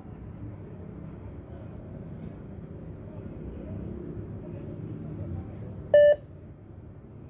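A single short, loud electronic beep about six seconds in, over a steady low background rumble.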